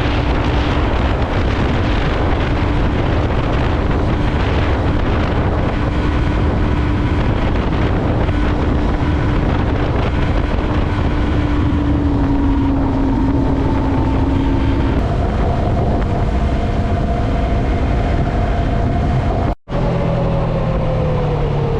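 Yamaha MT-03 motorcycle riding at a steady speed, its engine note holding level under heavy wind noise on the microphone. About fifteen seconds in, the engine note steps up in pitch. After a brief cut in the sound near the end, the engine note falls away as the bike slows.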